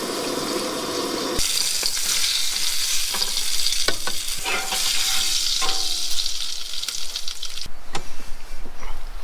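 Food sizzling as it fries in a cast-iron pan, with occasional clicks and scrapes of a utensil. The hiss comes in loud about a second and a half in and eases off near the end.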